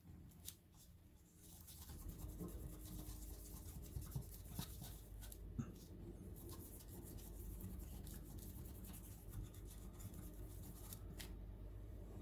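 Faint scattered clicks and scraping of small tools and hands working on laptop parts, over a low steady hum that comes up about two seconds in.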